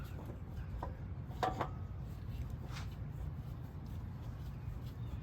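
Faint clicks and light scraping of an oil filter being handled and fitted into its housing, a few scattered taps with the clearest about a second and a half in, over a steady low rumble.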